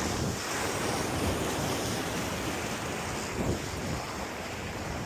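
Ocean surf washing against jetty rocks, a steady rushing noise with one brief louder surge about three and a half seconds in, mixed with wind buffeting the microphone.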